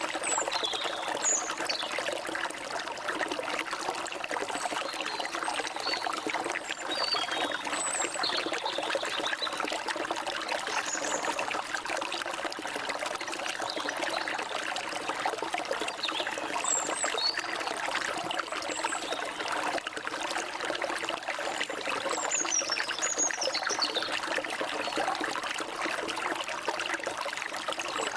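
Forest stream water running and trickling steadily, with short, high bird chirps and quick falling whistles scattered throughout.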